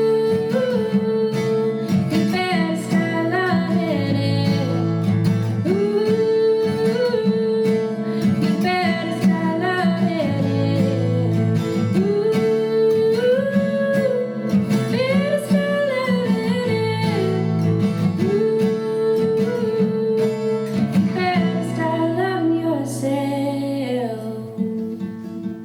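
Acoustic guitar playing chords under a wordless sung melody that glides between notes in long phrases.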